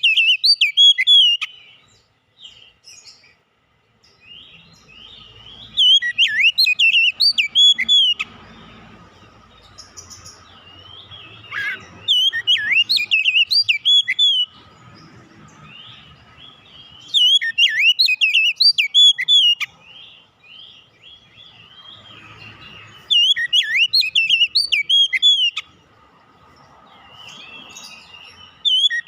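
Oriental magpie-robin (kacer) singing in loud bursts of fast, varied whistled phrases, each burst two to three seconds long and repeated about every five to six seconds. A faint steady hum lies underneath in the gaps.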